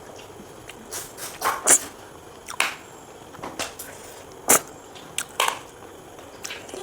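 Close-up eating sounds of someone eating snails in curry: short, sharp mouth smacks and sucking clicks, about a dozen at irregular intervals.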